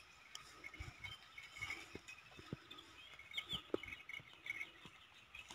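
Quiet rural ambience: small birds chirping on and off, with a few soft, scattered thuds.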